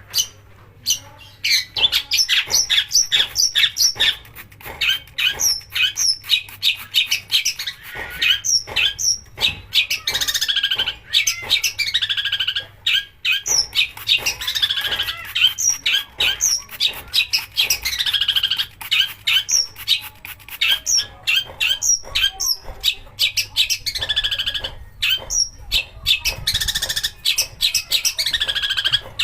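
Long-tailed shrike (cendet) singing a loud, fast run of sharp notes, many sliding down in pitch, broken by stretches of harsh, rasping chatter.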